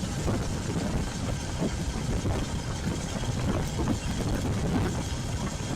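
Royal Enfield Classic 350's single-cylinder engine running on the move, mixed with wind buffeting the action camera's microphone.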